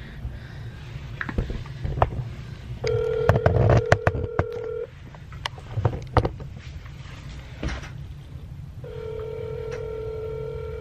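A phone's outgoing FaceTime call ringing, unanswered: two steady two-second ring tones about six seconds apart, with scattered clicks and knocks between them.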